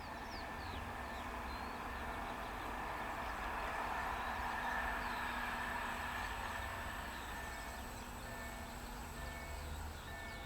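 Distant vehicle noise that swells to a peak about halfway through and then eases off, with small birds chirping over it.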